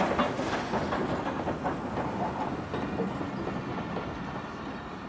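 A steam-hauled train's carriages rolling past, wheels clicking and rumbling over the rails. The sound grows gradually fainter as the locomotive draws away.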